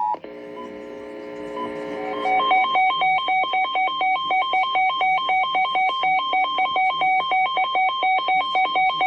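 Emergency alert tones on a radio broadcast of a tornado warning: a steady alert tone cuts off right at the start, a softer cluster of lower tones swells for about two seconds, then a loud warbling tone alternates rapidly between two pitches, about three times a second, until it stops abruptly at the end.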